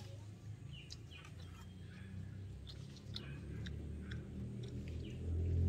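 Small birds chirping: short, sharp chirps repeating every half second or so, some dropping in pitch. A low rumble underneath grows louder near the end.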